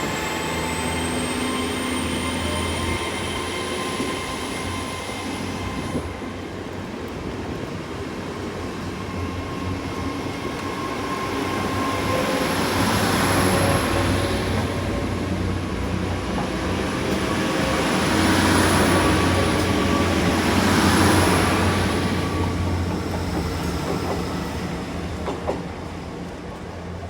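Great Western Railway express train pulling out, with a steady low drone, a high whine rising over the first few seconds, and wheel-on-rail noise swelling twice as the coaches pass.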